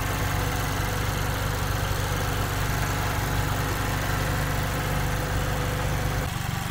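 2021 Mazda Miata's Skyactiv four-cylinder engine idling steadily on its old oil, before an engine flush and oil change.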